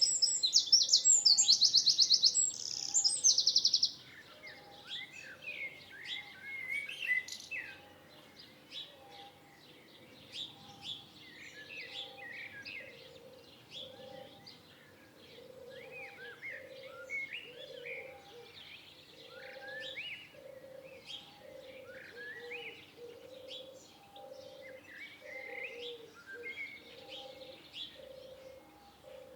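Several wild birds singing and calling together. A loud, rapid, high trill stops abruptly about four seconds in, leaving many softer overlapping chirps over a low note repeated about once a second.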